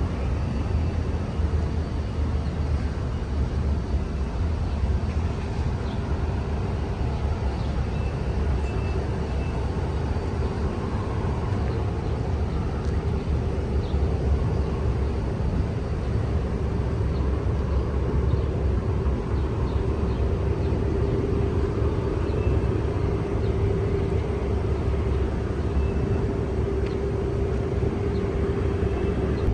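Steady outdoor city ambience: a constant low rumble of distant traffic with a steady hum running through it, and a few faint chirps.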